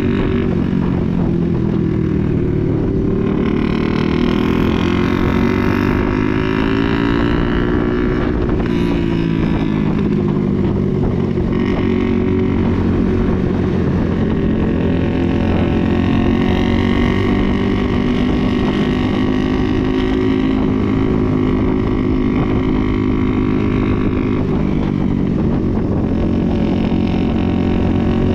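Motorcycle engine running under way, its pitch rising and falling with the throttle, with some wind noise.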